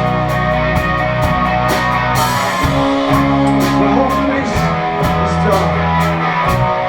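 Live indie rock band playing: guitars and bass over a drum kit, with steady cymbal strikes and a cymbal crash about two seconds in.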